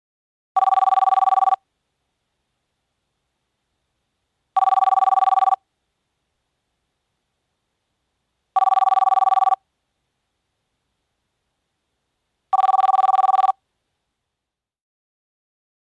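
Telephone ringing: four warbling rings of about a second each, spaced about four seconds apart.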